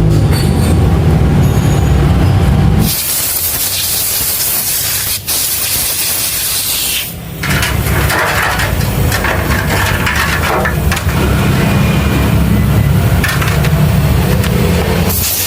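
Loud hissing spray, strongest from about three to seven seconds in, with a low mechanical hum for much of the rest.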